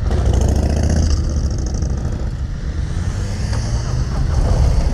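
Harley-Davidson Low Rider ST's 117 V-twin engine running as the motorcycle rides along, a steady low rumble that grows a little louder near the end.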